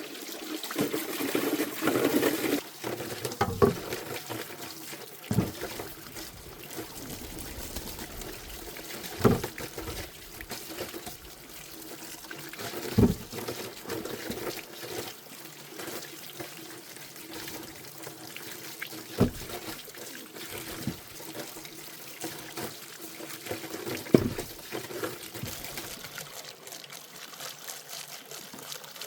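Water pouring for the first couple of seconds, then trickling on with a few sharp knocks or splashes spaced several seconds apart.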